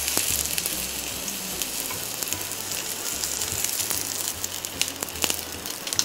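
Tofu skin pan-frying in oil: a steady sizzle with scattered crackles as it crisps to golden.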